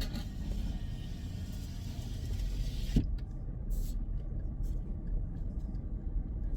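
Toyota 4Runner driving slowly, heard from inside the cabin: a steady low rumble of engine and tyres, with a single knock about three seconds in.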